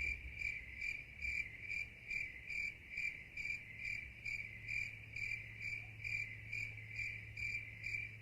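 Cricket chirping in an even rhythm, about three high chirps a second, over a faint steady low hum.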